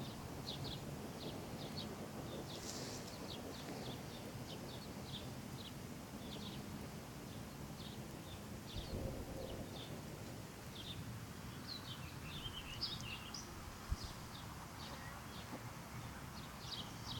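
Small birds chirping over and over in short high chirps, with a busier, more varied twittering about twelve seconds in, over steady low outdoor background noise.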